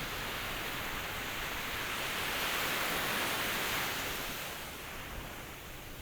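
Ocean surf: a rush of wave noise that swells to a peak about halfway through and eases off near the end, as a wave comes in and draws back.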